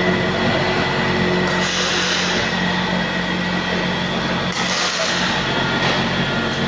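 Friction stir welding machine running steadily with a constant machine hum and a steady high tone, with two short hisses about one and a half and four and a half seconds in.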